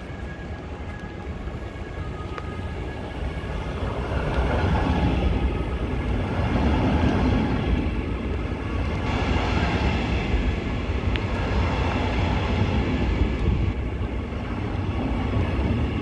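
Red double-deck regional train running past close by along the platform, a steady rumble of wheels on the rails that grows louder about four seconds in as the coaches come alongside.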